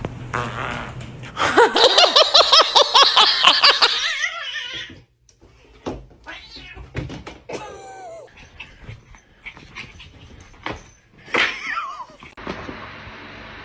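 A cat caterwauling in a loud, rapid string of cries, about seven a second for some three seconds. Later come a few shorter, quieter calls, one of them gliding in pitch.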